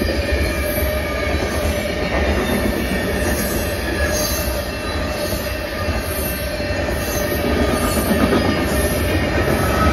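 Freight train cars rolling past at speed: a steady, heavy rumble of steel wheels on the rails, getting a little louder near the end.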